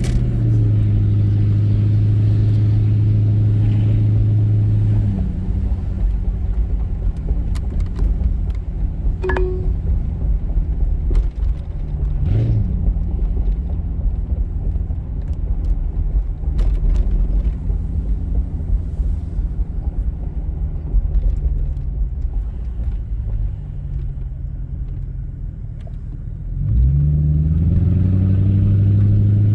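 1996 Mercury Grand Marquis 4.6-litre V8 running through a single straight-pipe exhaust with no resonator and the rear catalytic converter deleted. It is held at a steady raised rpm, drops to a rumbling idle about five seconds in, and is brought back up to a steady raised rpm near the end.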